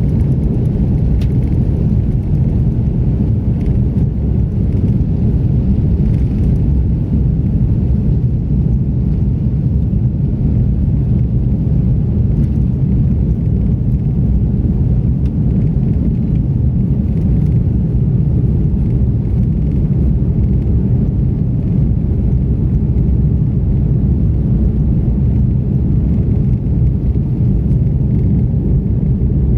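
Steady low rumble of an Airbus A330-300 heard from inside the passenger cabin, engines and airframe noise running evenly with no change in pitch.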